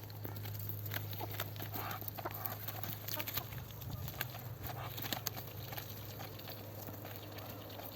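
Ducks and chickens pecking at lettuce: many quick, irregular taps and clicks, over a steady low hum.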